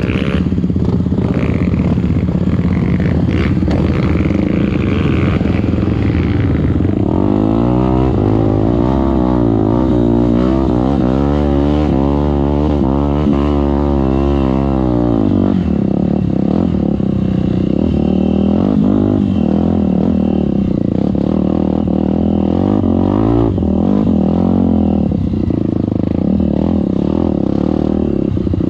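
Trail motorcycle engines running, revved up and down repeatedly for several seconds before settling back to steadier running.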